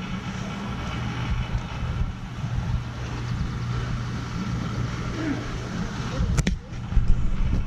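Steady outdoor background rumble with a low hum, and one sharp click about six seconds in.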